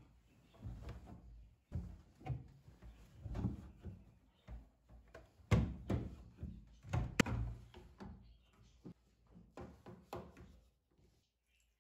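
Household cleaning and handling noises: irregular thuds, knocks and clicks as things are moved and set down, with a sharp click about seven seconds in.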